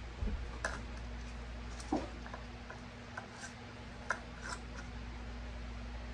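Irregular light clicks and taps of metal jar lids and glass jars being handled, over a steady low hum.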